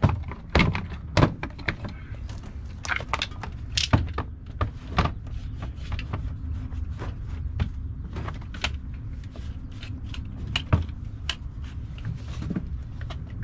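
Tools and metal parts being handled: scattered clicks, knocks and clatter, a few louder knocks in the first few seconds. Underneath runs a steady low hum.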